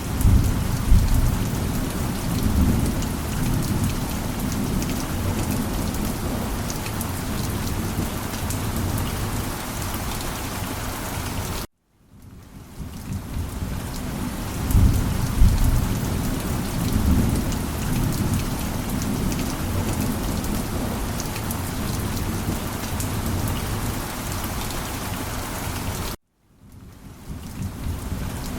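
Steady heavy rain with low rolls of thunder. The ambience loop cuts to silence for a moment about twelve seconds in and again near the end, then fades back in with a thunder rumble.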